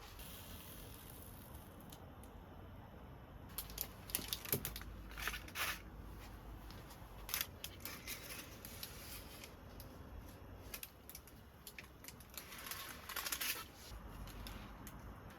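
Intermittent rustling and crinkling, with small clicks and taps, as things are handled.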